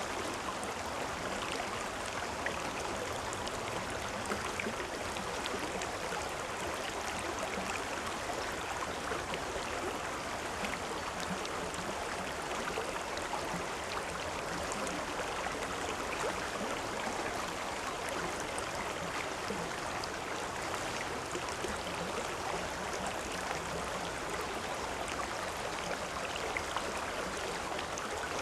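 A river or stream flowing steadily over rocks, a continuous rushing and babbling with small splashes.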